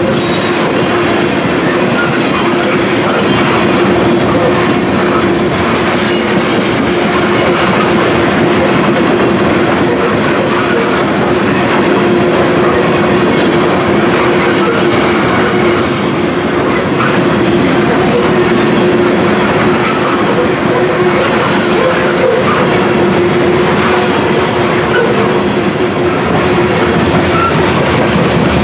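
Covered hopper cars of a freight train rolling past close by: a steady rumble and clatter of steel wheels on the rails, with a steady hum-like tone running under it.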